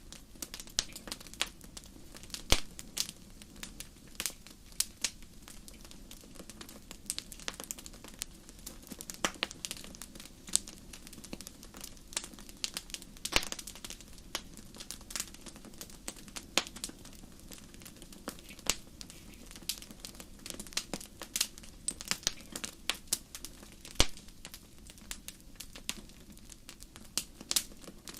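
Burning wood fire crackling, with irregular sharp pops and snaps over a low steady rumble.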